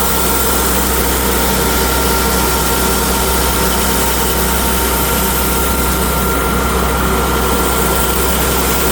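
A motor-driven machine running steadily: a constant low hum with a few steady whining tones above it, unchanged throughout.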